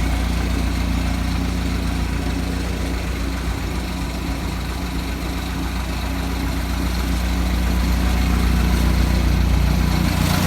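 Jeep CJ5's engine idling steadily while it warms up after a cold start, a little louder in the last few seconds.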